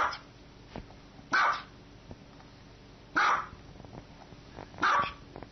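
A small dog barking: four sharp single barks, spaced about a second and a half apart.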